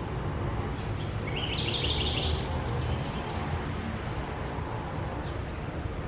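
A bird gives a quick run of rapid, repeated high chirps about a second in, with a few single high chirps near the end, over a steady low background rumble.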